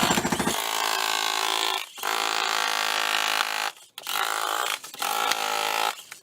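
A power tool on a concrete demolition job: rapid hammering blows stop about half a second in, then the tool's motor runs with a high, steady pitch in bursts of one to two seconds with short breaks between them.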